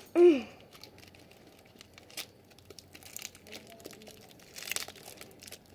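Plastic packaging crinkling and crackling in scattered bursts with small clicks as it is worked open, loudest a little after three seconds and again near the end. A short falling vocal grunt of effort comes right at the start.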